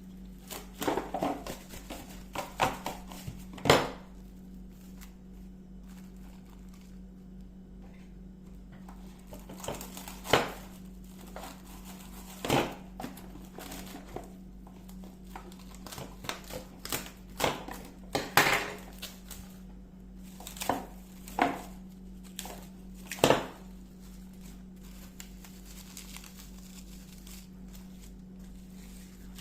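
Kitchen handling noises during food preparation: irregular crinkling and crumpling with a few sharper knocks and clatters, over a steady low hum. They bunch in the first four seconds, come again scattered from about ten to twenty-four seconds in, then stop, leaving only the hum.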